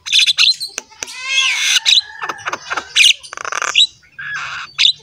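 A bird squawking and chirping, close and loud: a quick run of varied calls, some whistled and some harsh.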